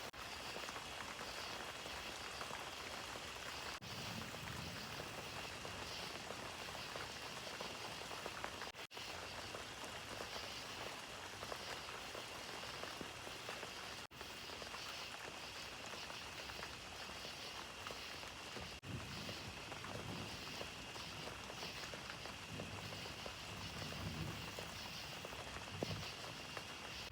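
Steady rain falling during a thunderstorm, a continuous hiss with a few low rumbles swelling now and then.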